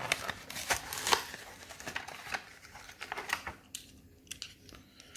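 Plastic blister and cardboard backing of a carded die-cast toy car being pried and torn open: a run of crackles and clicks, busiest for the first three seconds or so, then thinning to scattered clicks.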